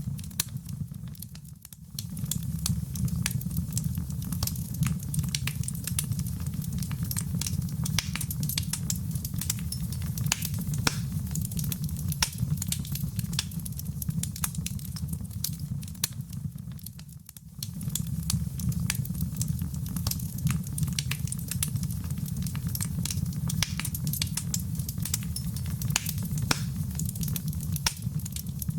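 Wood fire in a fireplace crackling, with many sharp pops and snaps over a steady low roar of the flames. The level briefly dips twice, about 16 seconds apart.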